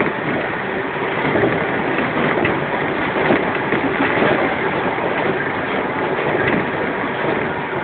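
Steady running noise of a JR 115-series electric train at speed, heard from inside the KuMoHa 115 motor car: the rumble of wheels on rail together with the traction motors and gearing, at an even level.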